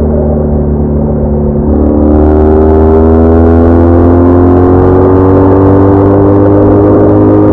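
BMW R1200R flat-twin motorcycle engine under way. A shift about a second and a half in is followed by the engine note rising steadily in pitch as the bike accelerates, with a rushing hiss growing alongside it.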